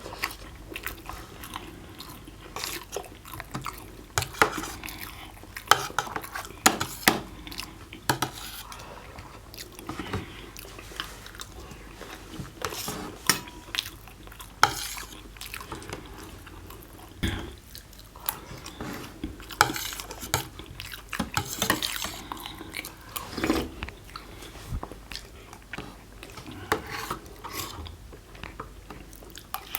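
Cutlery and dishes clinking and scraping irregularly while people eat, with chewing in between.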